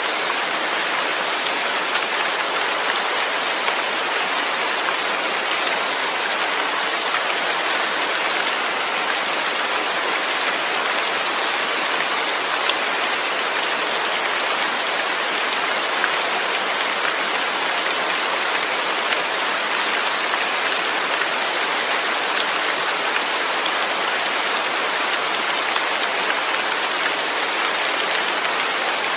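Steady rain falling, an even hiss of drops on surfaces without pause or change.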